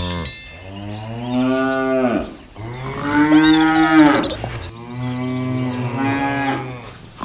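A cow mooing: three long moos in a row, each bending up and then down in pitch.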